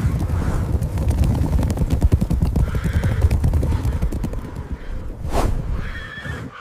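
A dense, steady rumble of many hoofbeats, like a herd of hoofed animals running, with a few short animal calls over it.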